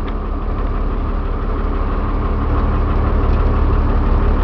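Cummins diesel engine of a step van running steadily, heard from inside the cab, growing slightly louder over a few seconds.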